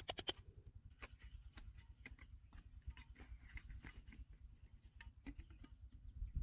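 Faint, irregular small clicks and scrapes, with a low rumble underneath. These are likely stones and gravel being handled or struck while digging for gold.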